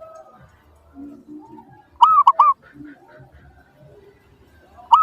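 Zebra dove (perkutut) cooing: one phrase about two seconds in, a longer arched coo followed by two quick short notes, with the next phrase starting right at the end.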